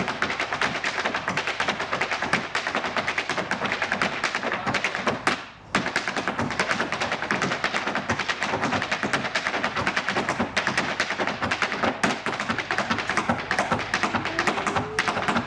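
Irish dancers' hard shoes beating out rapid, dense taps and stamps on a hard floor, with a brief break about five and a half seconds in.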